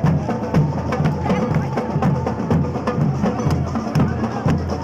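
Brass band music led by its percussion: a deep bass drum and sharp clicking strikes keep a steady, quick beat.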